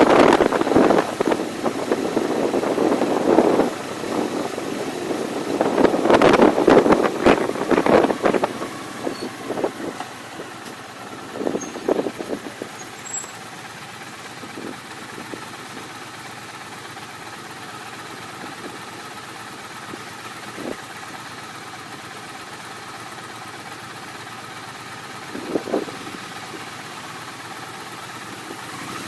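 A vehicle's engine running, with loud, irregular rumbling for the first ten seconds or so, then settling to a steady, quieter hum broken by a few short knocks.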